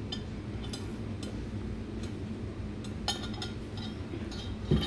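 Light, scattered clicks and clinks of tableware and food being handled during a meal, with a short burst of them about three seconds in and a dull thump near the end.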